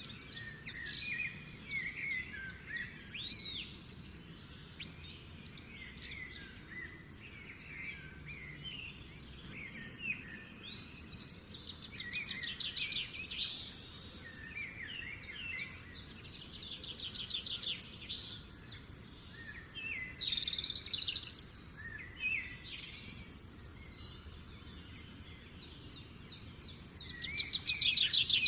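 Several birds chirping and calling in the background, with rapid trilling phrases every few seconds, over a faint steady outdoor noise.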